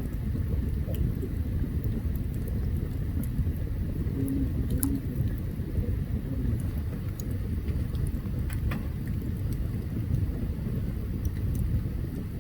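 Open campfire burning: a steady low rumble with scattered sharp crackles and pops, the loudest pops about five seconds in and again near nine seconds.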